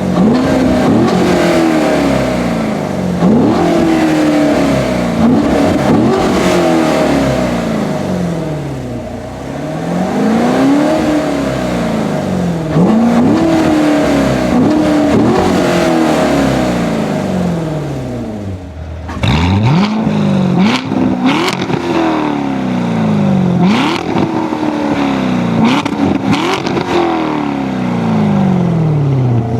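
2016 Corvette Stingray Z51's 6.2-litre LT1 V8 revving again and again through its multi-mode exhaust in sport mode, bypass valve open; each rev climbs quickly and falls back. After a brief lull about two-thirds of the way through, the revving resumes with short sharp cracks mixed in.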